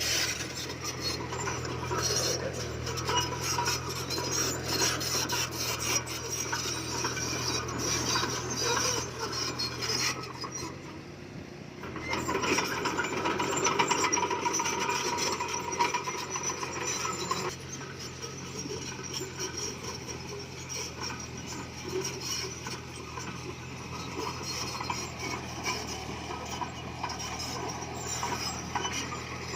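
Komatsu D20P bulldozer's diesel engine running steadily under a continuous grinding and scraping of stone and steel tracks as it pushes rock fill. The scraping drops away briefly about ten seconds in, then comes back louder.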